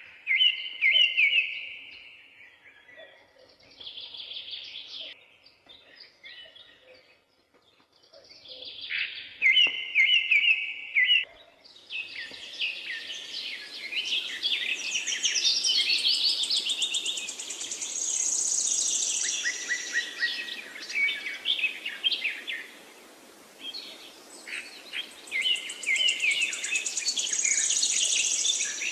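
Forest birds singing. One bird repeats the same short, quick phrase three times, several seconds apart. From about 12 seconds in, a fuller chorus of several birds joins over a steady background hiss, with high thin trills among them.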